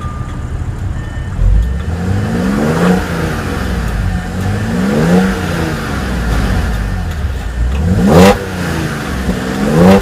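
2014 Audi S5's supercharged 3.0-litre V6 running at idle and revved in four short blips, its exhaust note rising and falling each time, with a low thump about a second and a half in.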